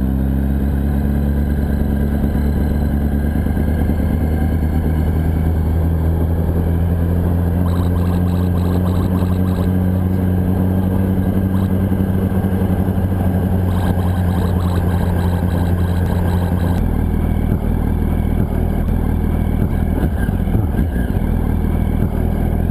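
Yamaha R1's inline-four engine running at a steady note while the bike is ridden, its sound changing about seventeen seconds in.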